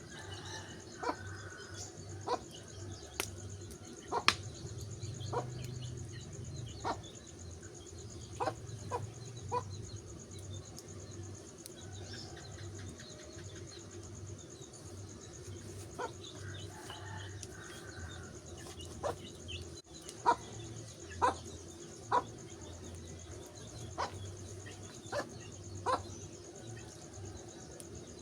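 Wood fire crackling, with irregular sharp pops scattered through, over a steady chorus of insects and occasional bird chirps.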